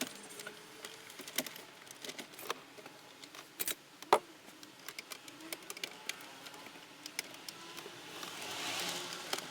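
Scattered small clicks and taps of hand work on plastic dashboard trim and connectors, with one sharper click about four seconds in and a short rustle near the end.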